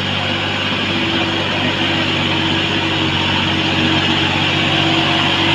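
Massey Ferguson 9500 Smart tractor engine running steadily while working a rotavator, with a steady higher whine coming in about a second in.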